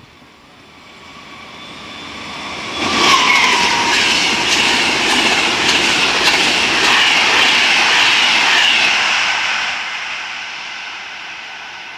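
Electric passenger train passing close by at speed. It grows louder as it approaches, runs at full loudness with rapid wheel clatter from about three seconds in, then fades as it moves away near the end.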